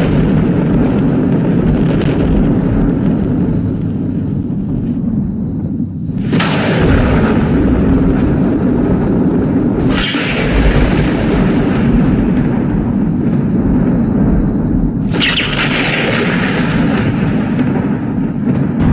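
Thunderstorm: continuous low rumbling thunder over heavy rain, with three sharp thunderclaps about six, ten and fifteen seconds in, each rolling away over a few seconds.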